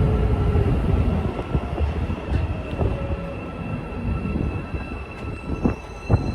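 A passing train's rumble, loud at first and fading steadily as it moves away, with a few faint steady whining tones above it.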